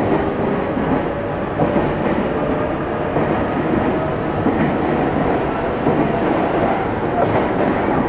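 On-board running sound of Meitetsu 300 series set 317F under way between stations: steady wheel-on-rail rumble with a faint motor hum and a few small knocks from the track.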